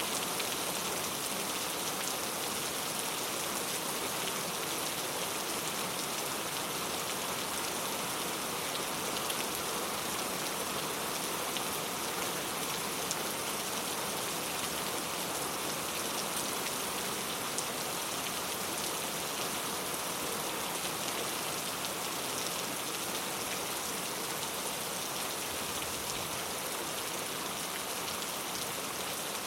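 Steady rain falling with no thunder: an even hiss flecked with small drop ticks.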